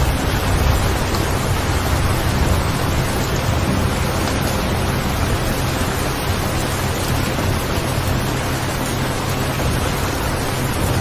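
Steady rain sound with a low rumble underneath, used as a sleep soundtrack.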